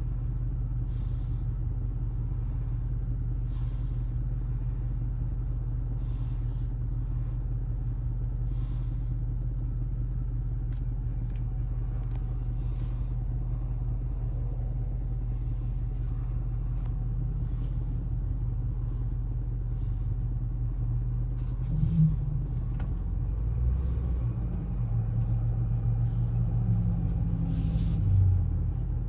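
6.4-liter gasoline Hemi V8 of a Ram 5500 bucket truck idling steadily, heard from inside the cab. Over the last several seconds the engine note gets louder and shifts in pitch as the truck moves off.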